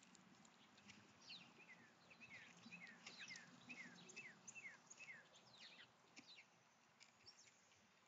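Faint bird chirps: a run of short notes, each sliding downward in pitch, about two or three a second, thinning out after about six seconds.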